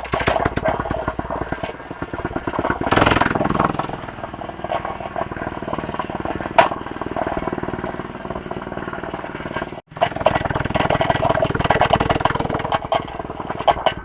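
Mini bike's Predator 212 single-cylinder engine running, with a rapid, even firing beat. It is revved up briefly about three seconds in. A sharp click comes midway, and the sound drops out for an instant just before ten seconds.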